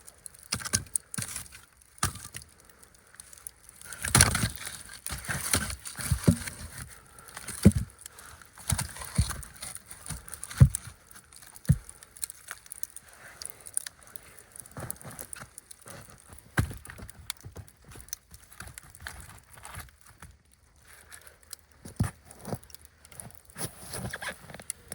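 Irregular knocks, cracks and rustling of wood being handled, heaviest in a run of dull knocks in the first half.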